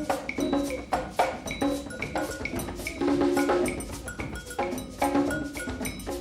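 Percussion ensemble playing live: a busy rhythm of quick struck notes, several a second, over some held pitched tones.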